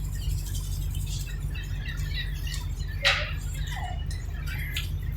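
Birds calling in short chirps, with one sharper squawk about three seconds in, over a steady low rumble.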